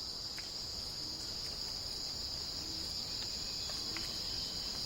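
Steady high-pitched insect chorus, a continuous drone throughout, with a few faint short calls and clicks over it.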